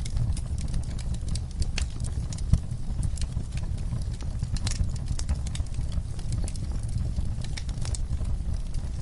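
Wood fire crackling in a fireplace: irregular sharp pops and snaps over a steady low rumble of the flames, with one louder pop about two and a half seconds in.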